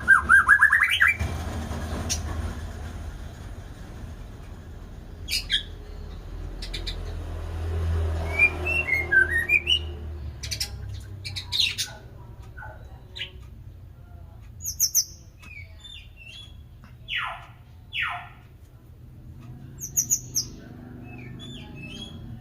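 White-rumped shama singing a varied song of quick repeated notes, whistles and high chips in separate phrases, with two longer sweeping notes near the end. A low rumble lies under the song in the first half.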